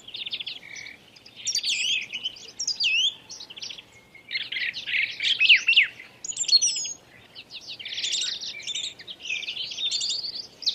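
Bird singing: rapid, varied chirps, trills and quick up-and-down whistled notes in bursts separated by short pauses.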